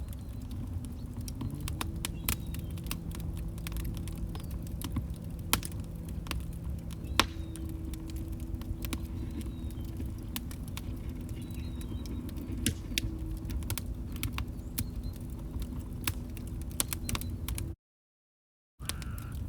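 Log fire crackling, with frequent sharp pops and snaps over a low rumble and a faint steady hum underneath. The sound cuts out completely for about a second near the end.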